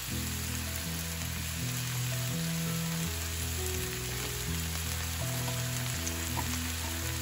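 Mushrooms sizzling steadily as they fry in a pan with soy sauce. Background music of held low notes, changing pitch every second or so, plays under the sizzle.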